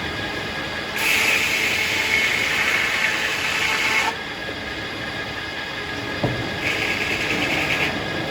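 Circular sawmill running steadily, with a louder stretch of sawing from about a second in that lasts about three seconds. A single thump follows, then a shorter burst of sawing near the end.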